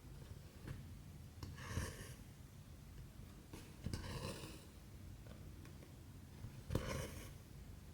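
Cotton embroidery thread drawn through 14-count cross-stitch fabric: three short rasping pulls, about every two and a half seconds, with faint needle ticks between.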